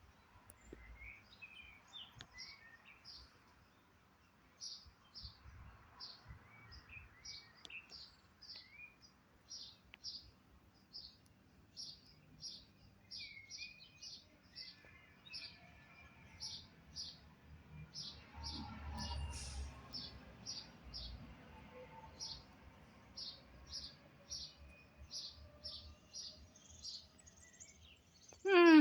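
Small birds chirping: a steady series of short, high chirps at about two a second, with a few lower gliding calls in the first seconds and a low rumble about two-thirds of the way through.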